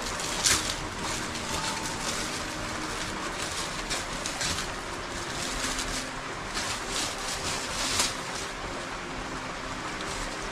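Steady rain hiss, with a few sharp ticks standing out above it.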